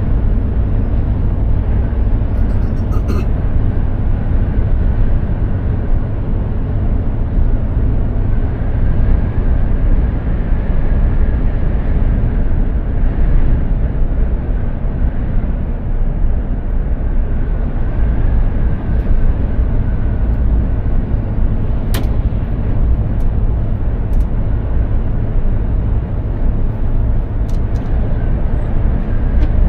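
Mercedes-Benz Actros 2763 truck on the road: a steady low drone of engine and road noise, with a few faint sharp clicks in the last third.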